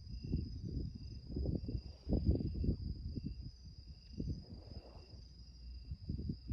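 Gusting wind buffeting the microphone in low rumbles, with insects singing behind it: a steady high buzz and a short chirp repeating about every half second.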